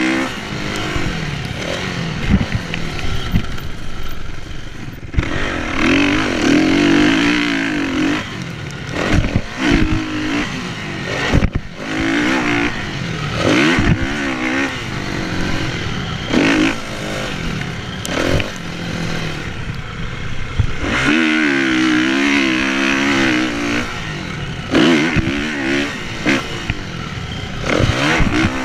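Kawasaki KX450F single-cylinder four-stroke motocross engine, heard up close, revving up and dropping back again and again as the throttle is worked around the track, with scattered clattering knocks.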